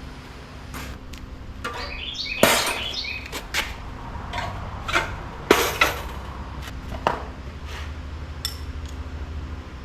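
Metal hand tools clinking and clanking against a bolted steel shipping crate as it is opened, with a few sharp knocks, loudest about two and a half and five and a half seconds in. A steady low hum runs beneath.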